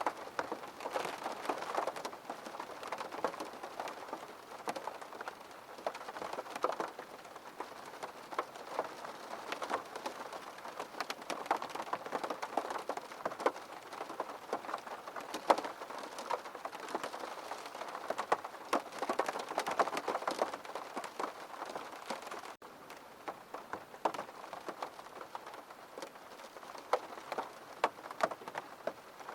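Rain falling on a window pane: a steady hiss of rain with many separate drop ticks on the glass. There is a momentary break in the sound about three-quarters of the way through.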